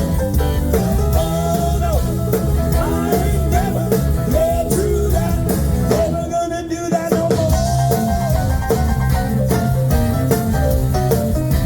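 Live blues band playing an instrumental passage: drum kit and bass keeping a steady beat under a lead line with bent notes. The band briefly drops out about six and a half seconds in, then comes back.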